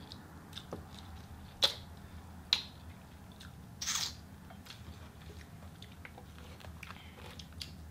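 Close-up eating sounds of chicken wings being chewed and the meat pulled off the bones: wet mouth clicks and smacks, two of them sharp and loud about one and a half and two and a half seconds in, and a short hissing suck about four seconds in.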